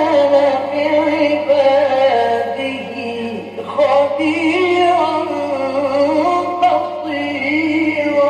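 A male Quran reciter chanting in the melodic mujawwad style, holding long ornamented notes that bend up and down, with a short breath about three and a half seconds in before the next phrase. A faint steady low hum from the old recording runs underneath.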